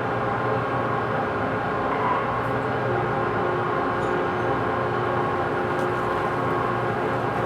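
Lathe running steadily with a drone and several held tones as it turns a large pot-bearing part, which the machinist thinks is probably too big for the machine.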